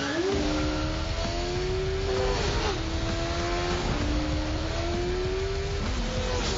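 Motorcycle engine accelerating hard through the gears, its pitch climbing steadily and dropping twice at upshifts.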